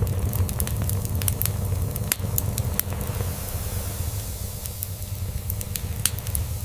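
Crackling wood fire, with frequent sharp pops and snaps scattered through, over a low, continuous cat purr.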